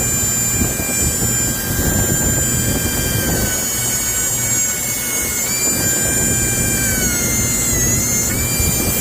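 CNC milling machine running with a steady high whine of several tones over a mechanical rumble. The whine dips in pitch a few times, about three and a half seconds in, about five and a half seconds in, and again between about seven and eight seconds.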